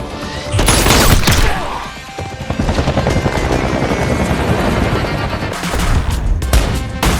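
Rapid gunfire in a film shootout over an action music score: a loud volley about half a second in, then a dense run of rapid shots.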